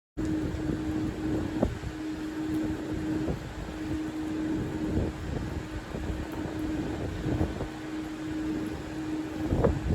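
Train noise: a steady low rumble with a constant hum and a few brief knocks, the loudest near the end.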